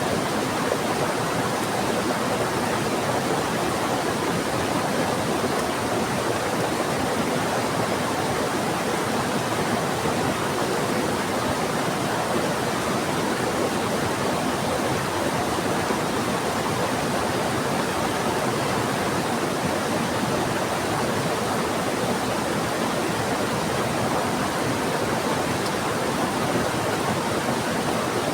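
Steady rushing of a fast-flowing river mixed with heavy rain, an even wash of water noise with no breaks.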